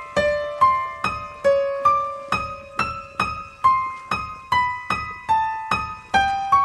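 Eerie piano melody: single high notes struck in an even pulse of about two or three a second, each ringing and fading.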